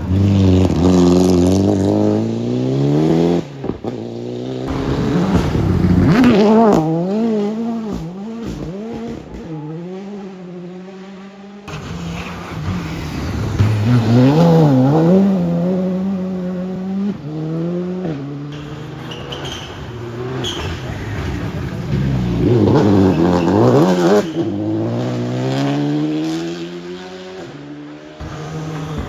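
Rally cars at full speed on a forest stage, one after another, engines revving hard and rising and falling in pitch through gear changes. Each car's sound swells and fades as it comes through; there are about four loud passes.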